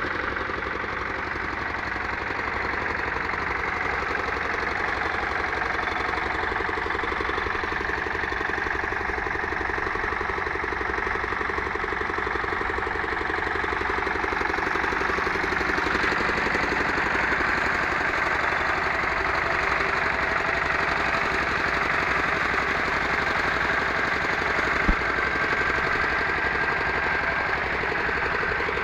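Pasquali tractor's Lombardini diesel engine running steadily with an even knocking beat, and one sharp click about 25 seconds in.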